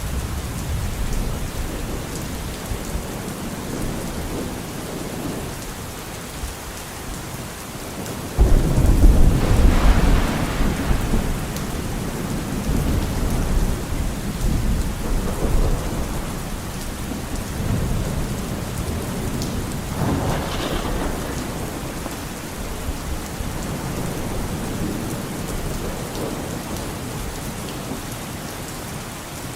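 Steady heavy rain with rolling thunder: a loud low rumble breaks in sharply about eight seconds in and fades over several seconds, and fainter rumbles follow later.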